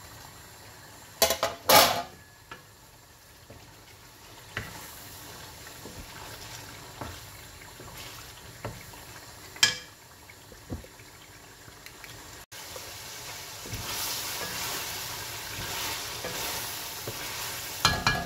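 Chicken frying with yogurt over a full gas flame in an aluminium karahi, stirred and scraped with a wooden spoon, the sizzle growing louder and steadier in the second half. A few sharp metal clanks of pan and lid, loudest about a second and a half in, with another halfway through and one near the end.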